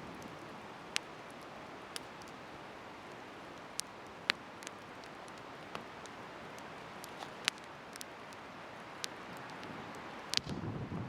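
Wood bonfire burning, with a steady soft hiss and sharp pops of crackling wood at irregular intervals. Wind gusts on the microphone in the last second.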